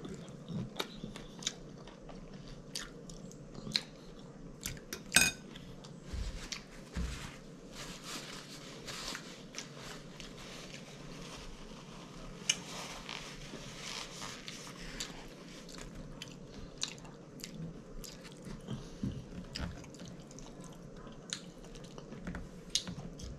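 Close-miked chewing and lip smacking from a person eating cheese-topped tater tots, with many sharp smacks and clicks, the loudest about five seconds in. Around the middle, a paper napkin rubs against the mouth.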